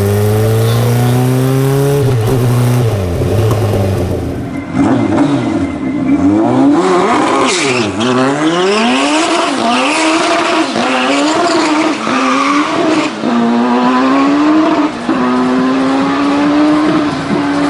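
Turbocharged Suzuki Hayabusa inline-four in a Reliant Bond Bug three-wheeler accelerating hard. Its pitch climbs and drops again and again as it revs out and shifts gear, settling into steadier climbs near the end.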